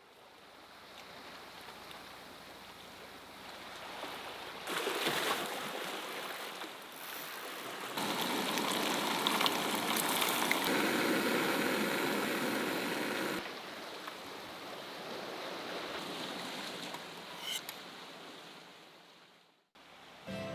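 Sea surf washing over a rocky shore, a rushing that fades in, grows louder in steps for several seconds in the middle, then drops back and fades out near the end.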